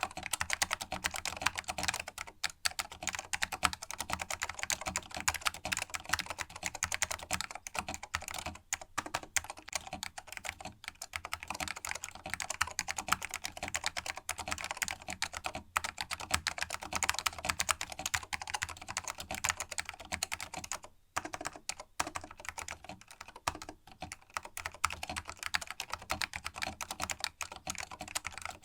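Fast continuous typing on a vintage Canon mechanical keyboard with linear green Alps switches, the keys clacking in a dense stream with a brief pause about 21 seconds in. The switch springs are lubed against spring ping.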